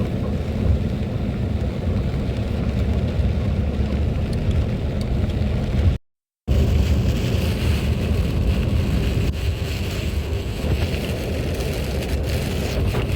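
Steady low rumble of a vehicle on the move. It drops out to silence for about half a second near the middle, and after that a higher hiss joins the rumble.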